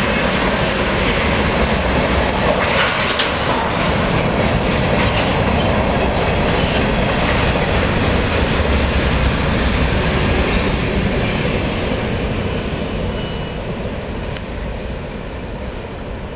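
Freight train cars (tank cars, then a covered hopper) rolling past close by: a steady rumble of wheels with clicking and clacking over the rail joints. The sound fades away over the last few seconds as the end of the train moves off.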